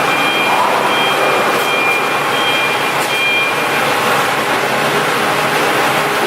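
500 kW Shangchai diesel generator set running steadily. A high electronic beep repeats about once every 0.7 s over it and stops about halfway through.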